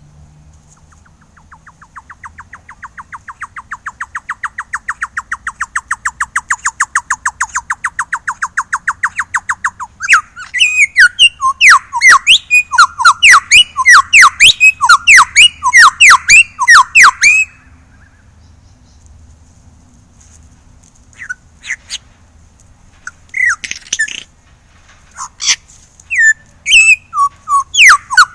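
Superb lyrebird calling: a long rapid run of short repeated notes that grows steadily louder for about nine seconds, then loud sweeping notes repeated quickly for about seven seconds. After a pause, scattered shorter calls follow.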